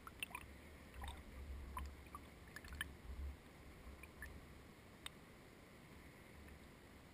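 Faint water sounds around a kayak: scattered small drips and splashes over a quiet hiss, with a low rumble that comes and goes.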